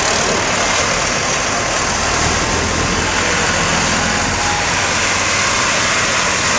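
Tractor engines running steadily as tractors on a road run go by.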